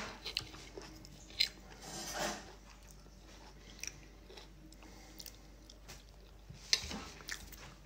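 A person chewing a mouthful of food close to the microphone. Soft mouth sounds come with scattered short clicks.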